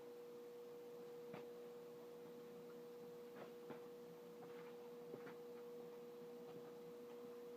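Near silence: a faint, steady high hum holding one pitch, with a few faint scattered clicks.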